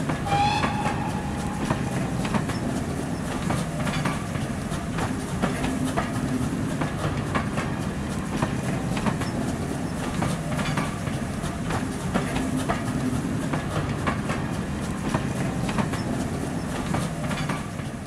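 A train rolling past on the track: a steady rumble with a regular clickety-clack of wheels over rail joints, and a brief squeal about half a second in.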